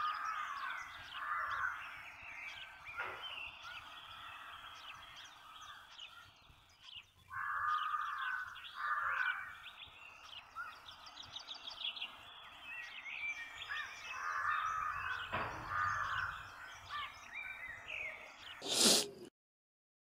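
Several songbirds chirping and singing over a soft outdoor background hiss, with repeated short song phrases. Near the end comes a brief loud rushing noise, then the sound cuts off.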